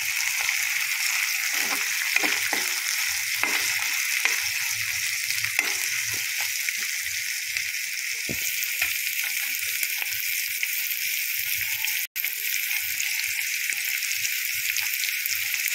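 Chopped onion, garlic, green chilli and tomato sizzling steadily in hot oil in a kadhai as they are fried until lightly browned. A spatula scrapes and taps the pan several times in the first half. The sound breaks off for an instant about twelve seconds in.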